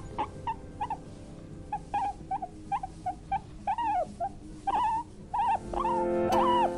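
A small animal giving a rapid series of short, squeaky pitched calls, about two or three a second, each one rising and falling.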